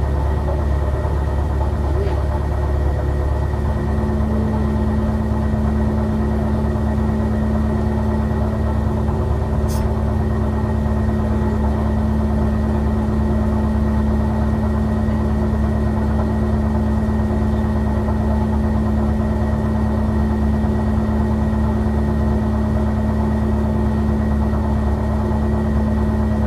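A tram's air compressor running steadily, a loud, even mechanical hum as it pumps up the air brake supply. A higher steady tone joins a few seconds in.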